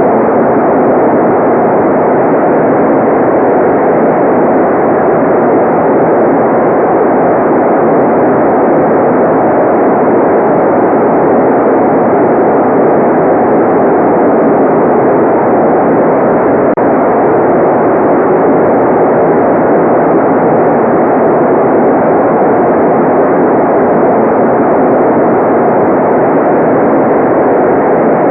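Steady generated white noise: a constant, even rush that never changes, muffled, with the high hiss cut off.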